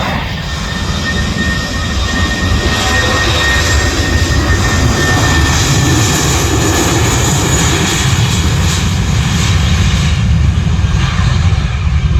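Airbus A320 jet engines at takeoff thrust: a loud, steady rumble with a high whine that fades partway through.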